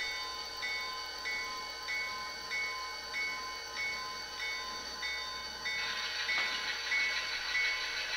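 SoundTraxx Tsunami2 sound decoder in an HO scale Athearn Genesys GP40-2 model diesel locomotive, playing its locomotive bell through the model's small speaker: regular strikes, about one and a half a second, as the engine makes a switching move. About six seconds in, a louder hissing noise joins the bell.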